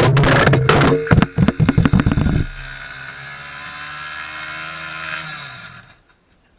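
Beta R150 pit bike engine running loud with rapid pulses, then dropping to a quieter, steady running after about two and a half seconds as the throttle comes off, its pitch creeping up slightly before it fades out near the end.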